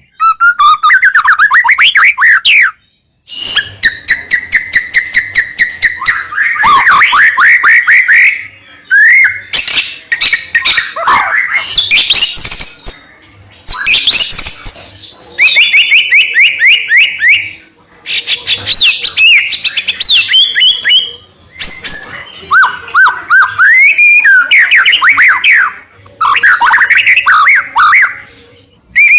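White-rumped shama (murai batu) singing: varied phrases of whistles and fast trills, broken by short pauses every few seconds.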